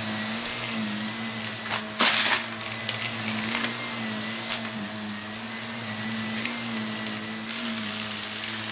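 Vacuum cleaner motor running steadily while sucking up crunchy debris: short crackling bursts about two seconds in and again around four and a half seconds, with scattered clicks. The rushing air gets louder near the end.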